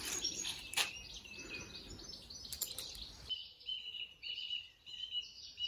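Small birds singing: scattered chirps over faint outdoor background noise, then a repeated high chirping phrase through the second half.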